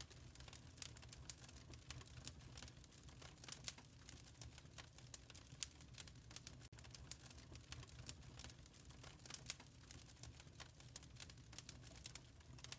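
Wood fire crackling in a fireplace: dense, irregular small snaps and pops over a low, steady rumble.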